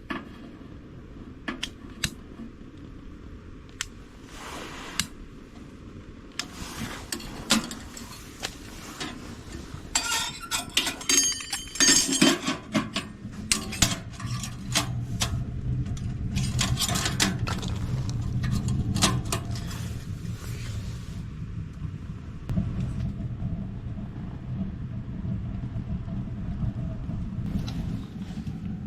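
Cookware and utensils clinking and knocking, with a busy run of clatter near the middle, then a steady low rumble that starts partway through and keeps going.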